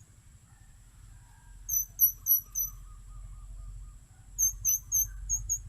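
Two quick runs of loud, high, squeaky chirps, four and then five, evenly spaced. They sound over a steady, high-pitched insect drone.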